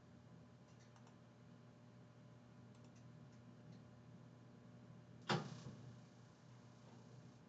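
Computer mouse clicks over a low steady hum: a few faint clicks, then one sharper click about five seconds in.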